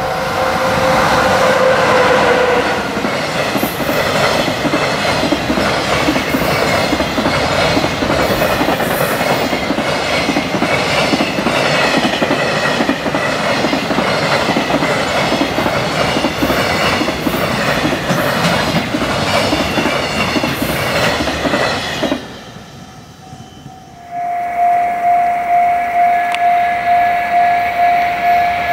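A container freight train passes close by. A horn sounds in the first couple of seconds and drops in pitch as the locomotive goes past. Then the wagons clatter rhythmically over the rail joints for about twenty seconds. After a brief quieter gap, a level-crossing alarm bell rings steadily, about two strikes a second.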